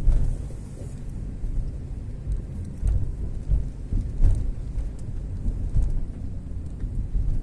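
Fairly heavy rain, with a constant low rumble underneath and scattered sharp ticks of drops.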